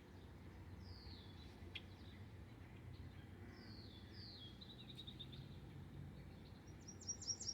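Faint songbird calls: several descending whistled notes and a short rapid trill, then quicker chirps near the end, over a low steady outdoor background.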